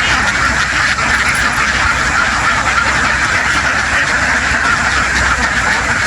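A huge flock of domestic ducks quacking all together, a dense, steady din of overlapping calls.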